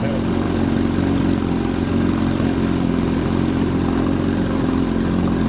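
1952 Mercury KF5 two-stroke outboard motor running steadily while the boat cruises.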